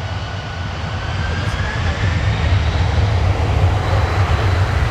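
Boeing 767-300ER jet engines running, a deep rumble with a faint high whine, growing louder.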